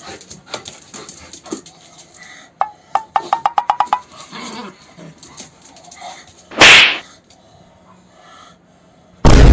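German Shepherd puppy letting out a rapid string of short high yips, about eight a second, around three seconds in, amid quieter scuffling. A loud, brief burst of noise comes near seven seconds, and a loud rumbling blast near the end.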